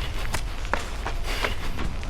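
A runner's footsteps on wet pavement, a quick even stride of about three steps a second, over a steady low rumble.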